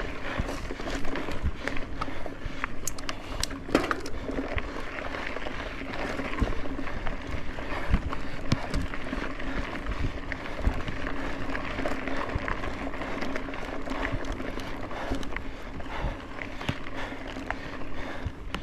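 Mountain bike being ridden over a dirt forest trail: continuous tyre and trail noise with frequent small clicks and rattles from the bike.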